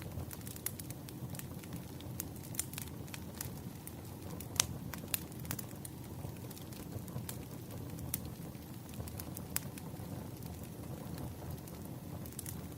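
Wood fire crackling: a steady low rumble of burning logs with scattered sharp pops, the loudest about four and a half seconds in.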